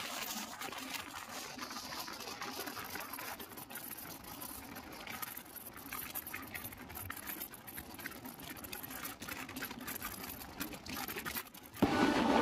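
Passenger train running at speed, heard from an open coach door: steady rushing noise with a rapid clatter of wheels over the rails. Near the end a much louder sound with steady tones cuts in suddenly.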